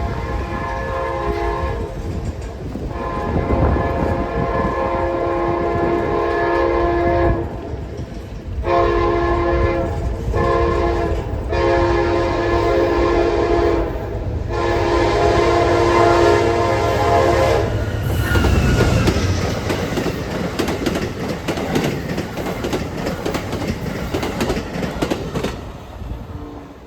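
Amtrak passenger locomotive's multi-chime horn sounding a series of about six blasts, some long, over the first two-thirds, then the train rushing past with wheels clacking over the rail joints.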